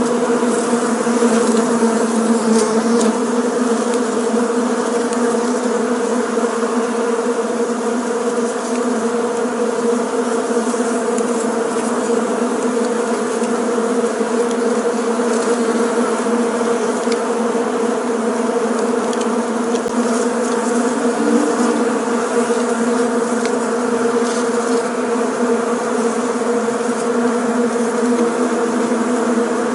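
Many bees buzzing together in a steady, dense hum with a low drone and its overtones, as from a swarm or a busy hive.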